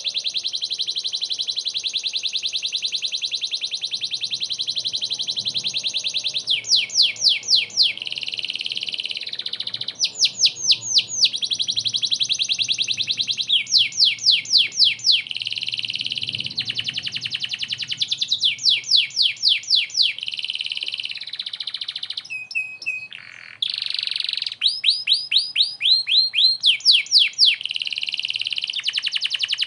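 Domestic canary in full song: long, very rapid trills alternating with runs of loud, sharp, repeated down-sweeping notes at about four a second.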